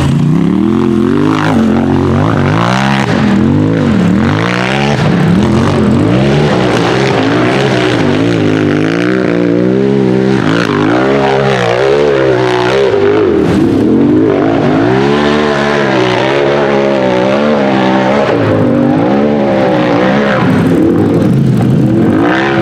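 A UTV race engine revving hard and repeatedly, its pitch climbing and dropping every second or two as the throttle is worked.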